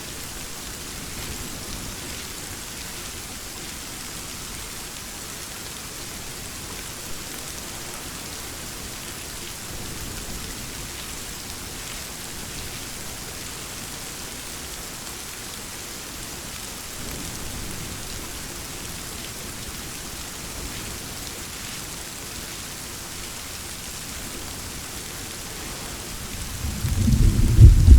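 Steady rain falling, with faint low rumbles of thunder now and then. Near the end a loud rolling thunder rumble builds up.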